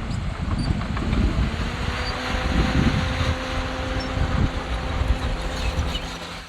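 Diesel engine of a heavy earthmoving machine running, with an uneven low rumble and a faint steady whine from about two seconds in.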